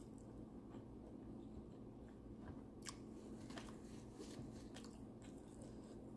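Close-up mouth sounds of chewing a mouthful of tilapia and rice: faint wet smacks and clicks scattered through, the sharpest about three seconds in.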